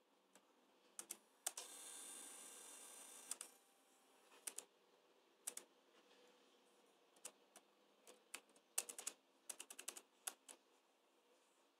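Laptop keyboard keys clicking, scattered and irregular. About a second and a half in, one key press sets off a faint hissing whine from the 2014 Razer Blade for about two seconds before it cuts off. The owner takes this for a weird fan noise triggered by pressing Enter.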